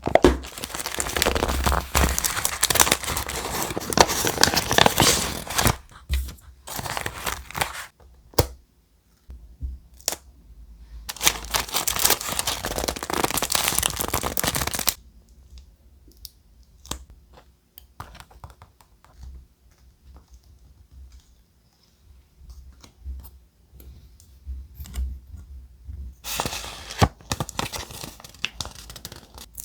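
Thick, textured paper being torn and crinkled by hand in three long stretches, with quieter gaps of small taps and rustles between them.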